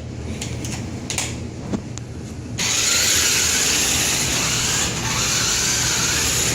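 Electric motor and gears of a fast toy RC car running hard, starting suddenly about two and a half seconds in and staying loud and steady, after a few light clicks.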